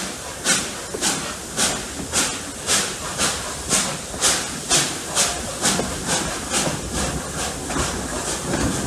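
Steam locomotive exhaust chuffing steadily at about two beats a second, with a steady hiss of steam between beats, as the engine works up a grade. Near the end the beats grow fainter under the running noise of the train.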